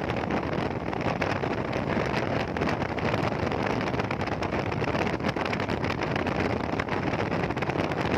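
A motorcycle riding at speed: a steady rush of wind on the microphone over road and engine noise.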